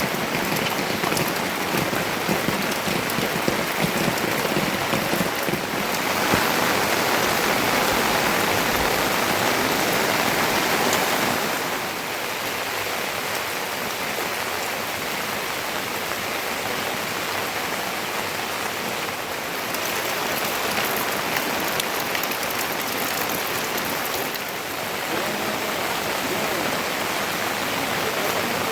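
Steady rain falling, an even hiss of water spread across all pitches. It grows louder for about five seconds a quarter of the way in, then settles back and shifts in level a few more times.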